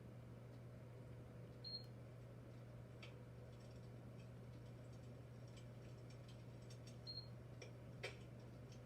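Electric fireplace insert's simulated fire-crackling sound, faint and sparse: half a dozen scattered crackles over a steady low hum.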